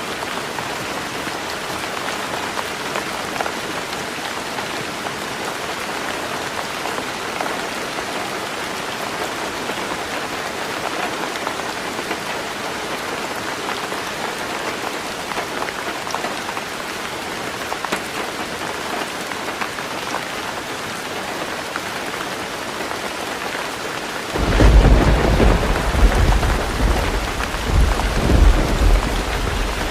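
Heavy rain drumming steadily on a tin roof. About 24 seconds in, a loud rumble of thunder breaks in and rolls on in several swells to the end.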